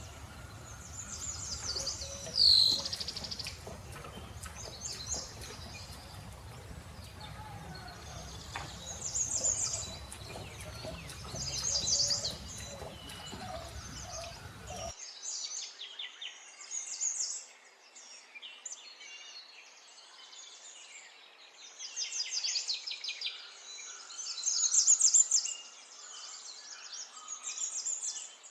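Songbirds singing in repeated bursts of high chirps and trills, one loud sharp call about two and a half seconds in. A low background hiss under the first half stops abruptly about halfway, and the birdsong carries on over a quieter background.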